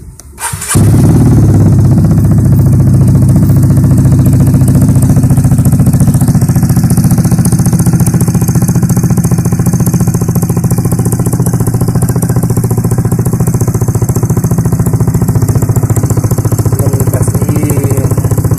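Vespa Primavera scooter engine idling through a Chuenk IMS aftermarket exhaust with its dB killer removed: a loud, steady, rapid exhaust beat, too loud. It comes in suddenly about a second in.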